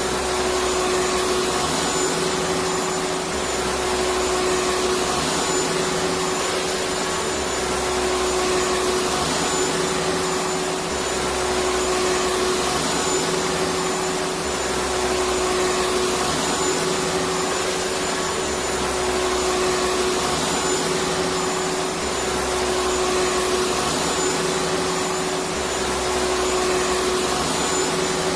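Electric vacuum cleaner running steadily: a full, even rushing noise with a constant hum and a thin high whine. Under it a faint low pulse repeats about every two and a half seconds.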